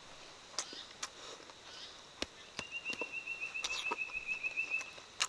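Mouth-closed chewing of fried chicken wings: scattered wet clicks and smacks. From about two and a half seconds in, a high, evenly pulsed trill of roughly nine pulses a second runs for a couple of seconds behind it and stops just before the end.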